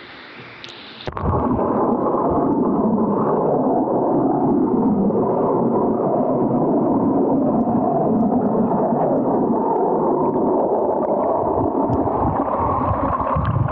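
Water noise picked up by an Insta360 Go 2 action camera's microphone as the camera goes underwater about a second in: a sudden jump to a loud, dull, muffled rushing and churning that lasts until near the end.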